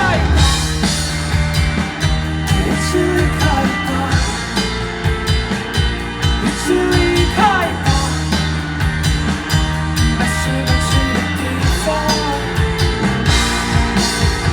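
A rock band playing live: drum kit, bass and electric guitar carrying a loud, steady groove.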